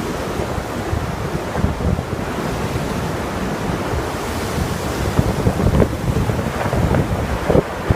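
Strong tornado wind rushing and buffeting the microphone in gusts, with a few short knocks in the second half.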